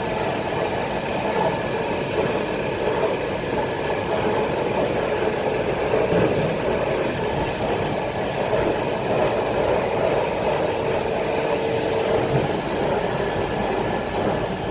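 ET2M electric multiple unit running at speed, heard from inside the passenger car: a steady rumble of the wheels and running gear, with a faint steady whine over it.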